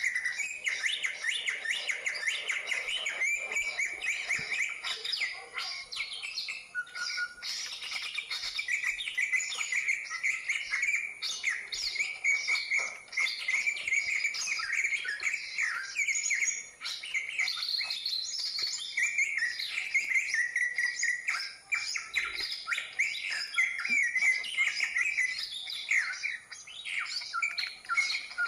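Leafbird song: a long, unbroken run of rapid chattering and whistled notes, quick and varied, with a faint steady high whine above it.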